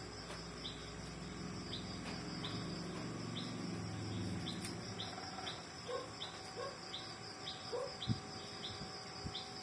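Background insects trilling steadily, with a short high chirp repeating about twice a second, likely a small bird. A low hum runs through the first half, and a few faint knocks come near the end.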